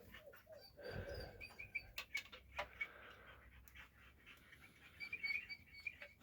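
Faint runs of short, high chirps from small animals or birds, twice, with scattered clicks and a low thump about a second in.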